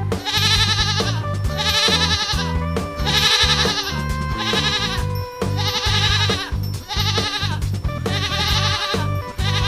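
Goat bleating over and over, each quavering bleat about a second long and repeating every second or so, over cheerful background music.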